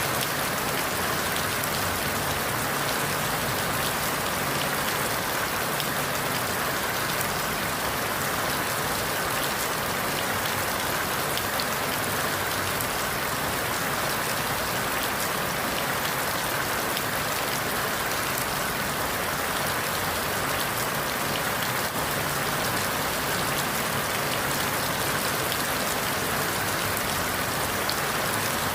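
Steady rain falling on forest leaves: an even hiss with a dense patter of individual drops and no changes in intensity.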